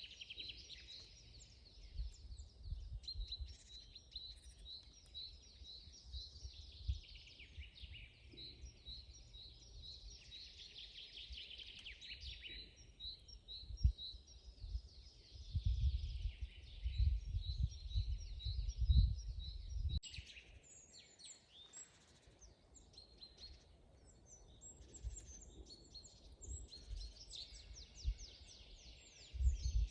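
Forest birds singing: one bird repeats a short high chirp a few times a second through the first half, and after about twenty seconds the song turns to quicker, higher trills. Bursts of low rumble come and go underneath and are loudest just before the song changes.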